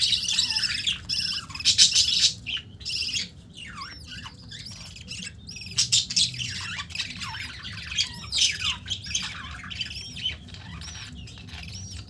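Budgerigars chattering and squawking, a continuous run of short rapid chirps and harsh calls.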